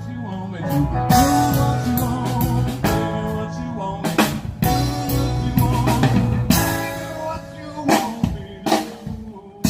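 Live cover band playing in the open air: a drum kit keeps a beat with sharp snare and rimshot hits under sustained pitched instruments.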